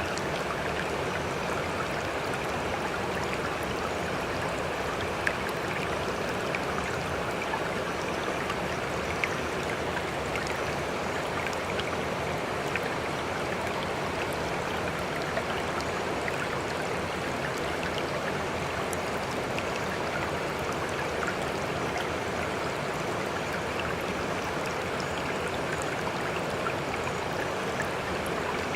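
Water washing and trickling in a steady, unbroken rush, with a few small sharp ticks of droplets here and there.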